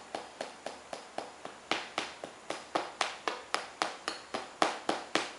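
Small hammer tapping rapidly and steadily on a Tong Ren healing doll, about five light taps a second.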